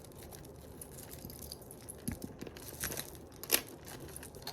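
Rummaging through jewelry: small clicks, light clinks and rustling, with one sharper click about three and a half seconds in.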